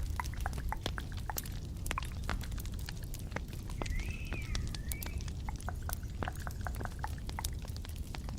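Small close-miked clicks and taps, scattered irregularly, with a brief wavering squeak about four seconds in, over a steady low rumble.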